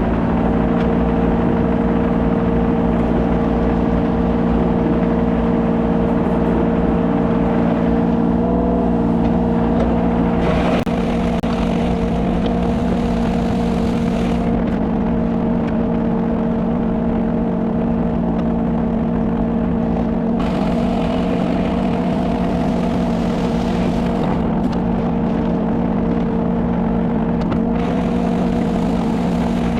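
Kubota mini excavator's diesel engine running steadily at working speed while the machine back-drags a gravel road, its level dipping slightly about a third of the way through.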